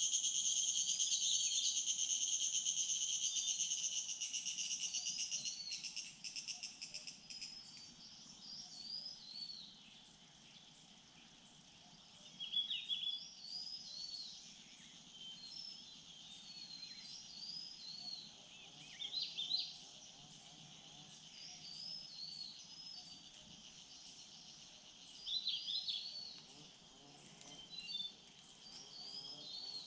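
An insect's steady high buzzing call fades out over the first few seconds. After that, small birds give repeated short chirps in the surrounding woodland.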